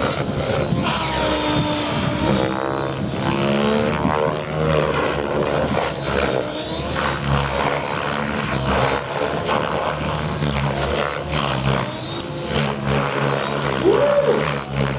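Radio-controlled 3D helicopter flying aerobatics, its rotor and motor sound rising and falling in pitch as the throttle and blade pitch change.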